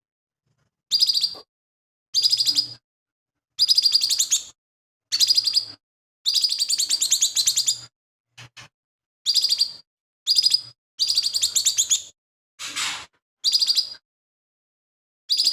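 Lesser green leafbird (cucak ijo mini) singing: about ten short, rapid chattering phrases of fast repeated high notes, each lasting half a second to a second and a half with brief pauses between. A softer, hoarser phrase comes about three-quarters of the way through. The chatter is the bird's mimicry of other birds' calls.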